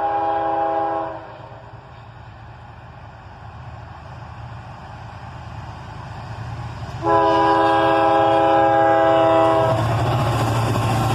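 Freight locomotive air horn sounding a chord of several tones: one blast cuts off about a second in, and after a quieter stretch of an approaching train's rumble a second, longer blast runs from about seven seconds to nearly ten. The train's engine and wheel noise then grow louder as it passes.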